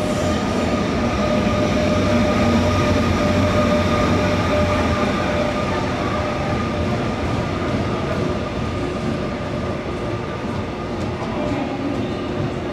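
ITX-Saemaul electric multiple-unit train running at the platform: a steady low rumble with steady whining tones over it, the rumble easing about five seconds in.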